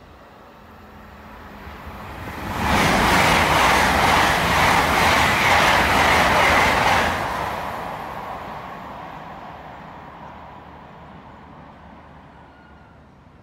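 GWR Class 802 intercity train passing through the station at speed close by: a rush of wheels and air that builds, then about four seconds of loud rumble with a rapid wheel clatter, fading slowly away as it goes.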